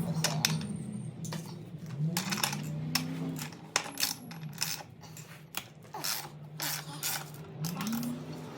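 Steel roller chain for a motorcycle's drive being handled, its links clinking and rattling against one another in many short, irregular metallic clinks.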